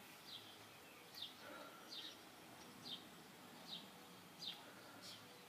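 A small bird chirping faintly and repeatedly: about seven short, high, falling chirps, roughly one every three-quarters of a second.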